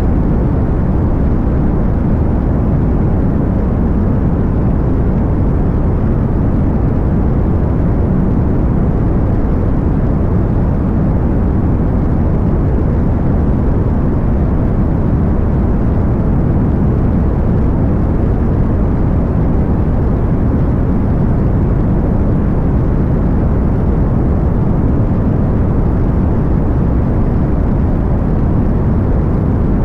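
Cessna 185 Skywagon floatplane's engine and propeller running in flight, a steady, unbroken low drone.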